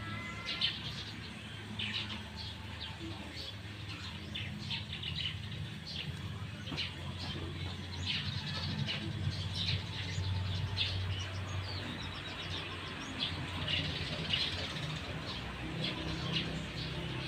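Small birds chirping in short, repeated notes over a steady low hum.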